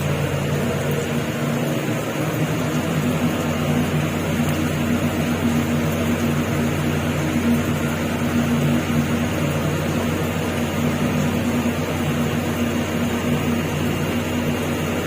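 Steady low drone of a ferry's engines and machinery, with a constant hum under an even rushing noise.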